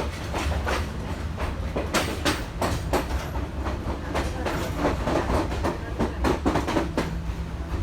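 Passenger train running, heard from inside a carriage: a steady low rumble of the wheels, with irregular clacks and knocks as they pass over the rail joints.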